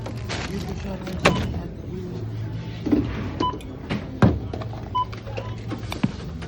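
Two short, high checkout-scanner beeps, about one and a half seconds apart, amid clicks, knocks and rustling of items being handled, over a steady store hum.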